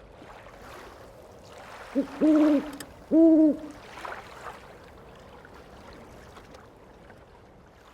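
Three low hooting calls: a short one, then two longer, slightly arched ones about a second apart, over a faint steady hiss.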